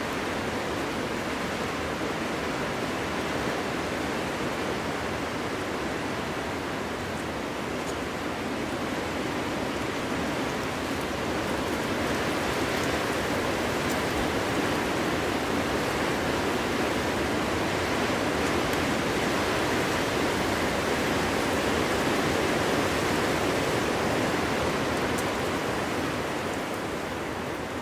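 Cold winter wind blowing through a forest as a steady rush, swelling a little in the middle and easing off near the end.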